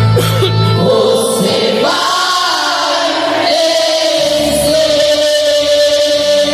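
Christian worship song: voices singing over instrumental backing with a bass line and a long held note.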